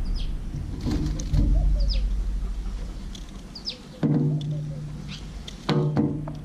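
Small birds chirping: three short, high calls that fall in pitch, about two seconds apart, over a steady low rumble. Two brief low pitched sounds come about four and six seconds in.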